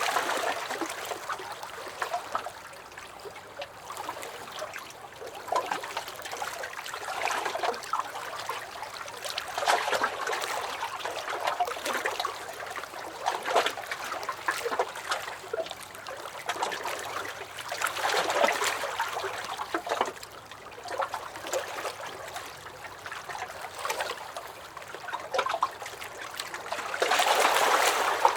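Small lake waves lapping and sloshing against a dock, with many small splashes and gurgles. The water swells and eases every few seconds, loudest near the end.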